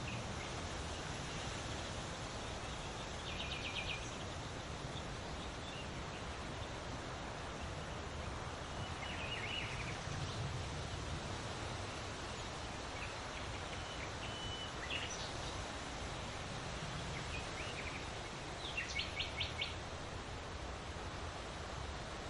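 Steady rustle of large leaves in the wind, with small birds chirping now and then over it; the loudest call is a quick run of about five notes a little before the end.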